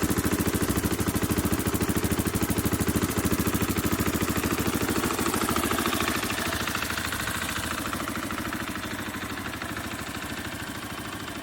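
2021 KTM 500 EXC's single-cylinder four-stroke engine idling with an even, steady thump, growing gradually quieter.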